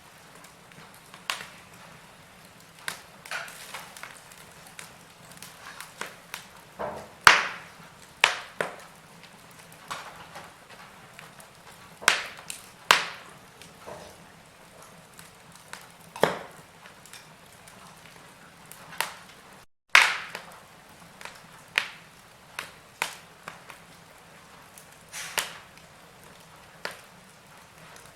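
Wood fire crackling in a fireplace: irregular sharp pops and snaps, one every second or so, with a few louder cracks, over a faint steady hiss. A very brief break in the sound comes just before one of the loudest snaps, about two-thirds of the way through.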